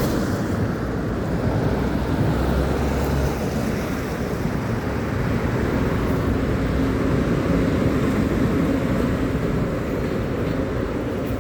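Steady rushing noise of wind on the microphone and tyres on a wet road.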